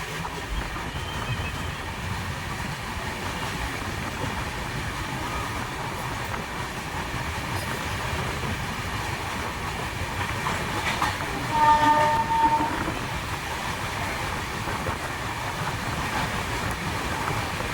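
Passenger train running on the track, a steady rumble and rattle of wheels and coaches, with a short horn sounding about twelve seconds in.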